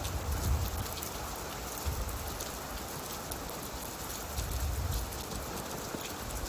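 Steady rain falling, with scattered drops ticking on a surface. A low rumble comes and goes, swelling again about four and a half seconds in.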